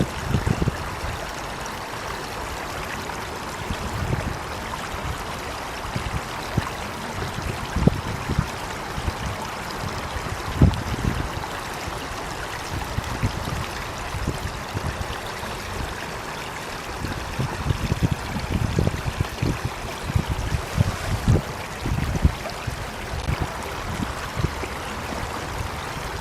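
Water flowing steadily, like a stream, with irregular low rumbles underneath that grow busier in the second half.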